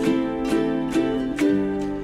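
Music: a plucked string instrument strumming chords, one stroke about every half second, with no singing.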